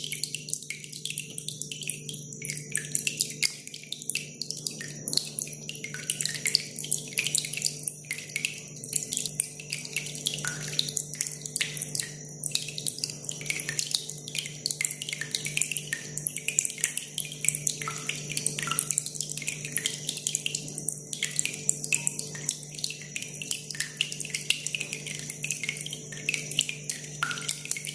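Water trickling and dripping in a dense, continuous patter of small drops, over a steady low hum.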